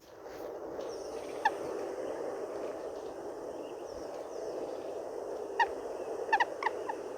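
A few short, pitched bird calls, one about a second and a half in and a quick run of several near the end, over a steady background hiss.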